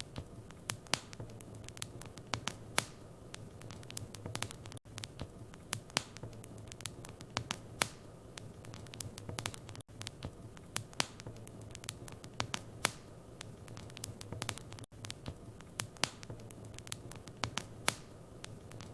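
Wood fire in a fireplace crackling and popping, with irregular sharp snaps over a low steady hum. The same five-second stretch of crackling repeats as a loop.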